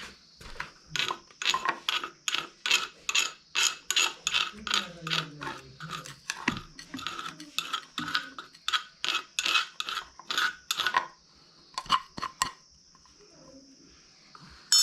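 Black pepper seeds being ground by hand: even, scraping grinding strokes at about three a second, going on for about ten seconds, then two last strokes after a short pause.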